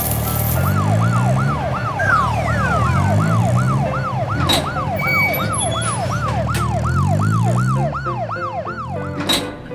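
Cartoon emergency-vehicle siren in a fast yelp, rising and falling about three times a second over a low pulsing tone, stopping near the end. A falling whistle sounds about two seconds in, and sharp clicks come about halfway through and again near the end.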